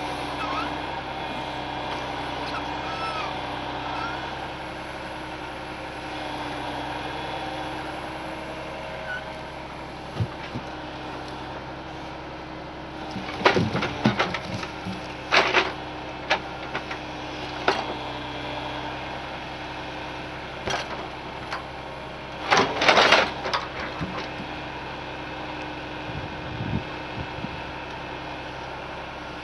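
An engine running steadily at idle, with several loud sudden clanks about halfway through and a hissing burst of about a second near two-thirds of the way in.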